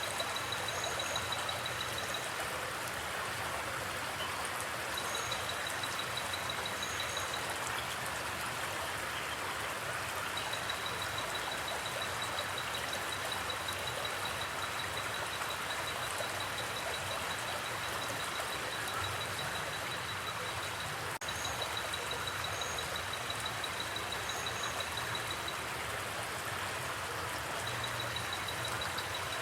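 Flowing forest creek, water rushing steadily. A rapid, high-pitched pulsing trill comes and goes in stretches of several seconds, with occasional paired high chirps.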